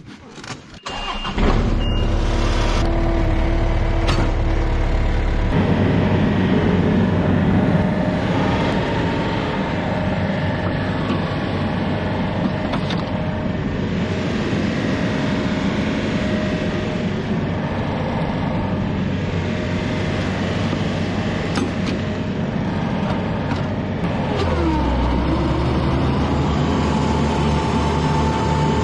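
A vehicle engine starts about a second in and then runs steadily, its note shifting twice: once a few seconds in and again near the end.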